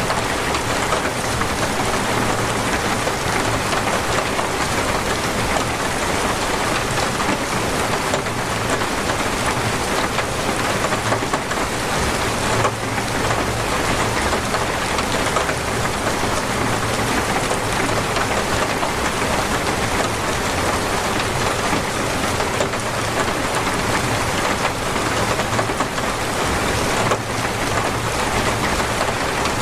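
Torrential rain falling steadily on surfaces, a dense, even hiss of drops.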